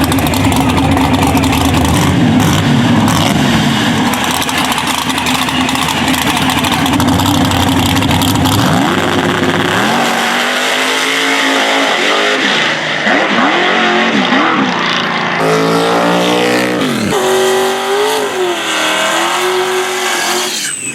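Drag race cars' engines running loud and steady, then about halfway in launching: the engine note climbs, drops back at each gear change and climbs again several times as the cars pull away down the track.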